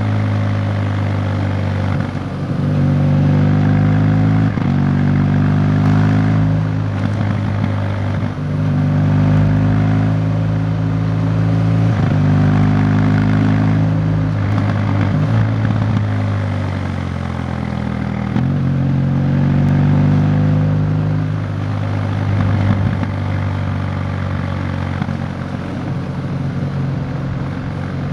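Motorcycle engine running under way, heard from on board with wind rush. Its pitch holds, then dips and shifts every few seconds as the throttle is eased and gears are changed.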